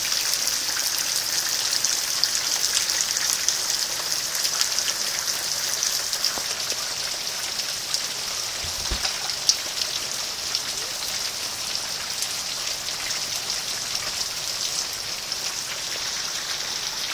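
Steady rain falling on hard surfaces, an even hiss dotted with many small drop ticks as the hailstorm tails off. One brief low thump about halfway through.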